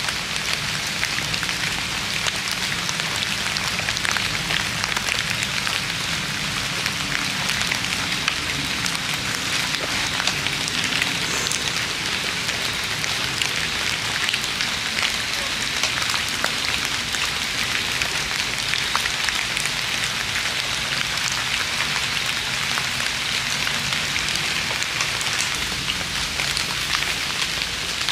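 Drizzle falling steadily, a constant hiss full of fine drop ticks with no letup.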